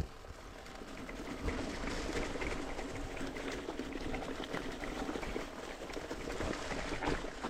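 Mountain bike riding a dirt single-track trail: tyres rolling and crunching over dirt and leaves, with a steady run of small rattles and clicks from the bike.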